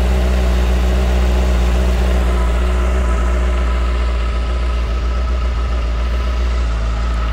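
Benda LFC700's four-cylinder engine idling steadily through its four-outlet, mesh-covered exhaust, with a slightly hoarse note that the owner puts down to the mesh in the outlets.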